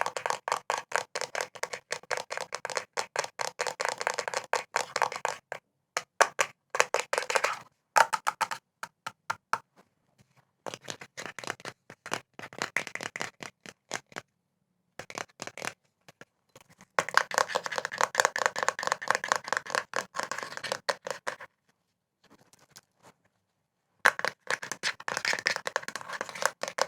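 Fast ASMR tapping on hard objects: quick runs of sharp taps, several a second, broken by short pauses, the longest about two seconds late on.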